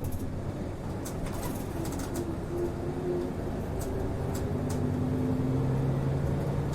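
Cabin sound of an Asahikawa Denki Kido route bus on the move: the engine runs with its note rising and falling, and light clicks and rattles come from the cabin fittings.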